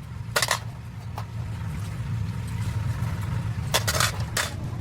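Sharp metallic clinks of hand tools against metal engine parts: one about half a second in, a lighter one a second in, then three in quick succession near the end. A steady low hum runs under them.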